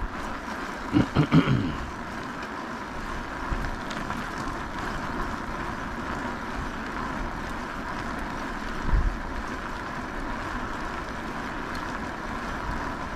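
Steady riding noise on an e-bike: wind and rolling noise with a faint steady whine, broken by a short pitched sound about a second in and a low bump near nine seconds.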